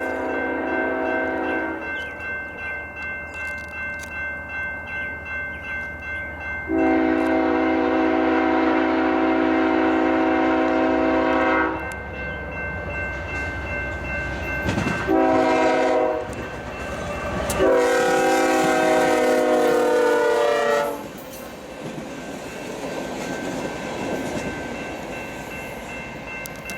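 BNSF inspection train's locomotive air horn sounding a multi-note chord in a long, long, short, long pattern, the grade-crossing signal. Under it runs a low diesel engine rumble that cuts off a little over halfway through, with faint wheel clatter on the rails.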